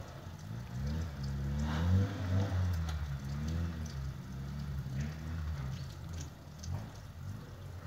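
Tofaş sedan's engine revving up and down as the car slides and spins its wheels in deep snow, with a steady hiss of the tyres churning the snow; loudest about two seconds in.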